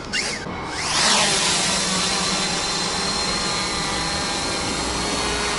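Fimi X8 SE quadcopter's motors spinning up, with a few quick rising-and-falling whines in the first second, then a steady propeller whir with a constant high hum and a lower one.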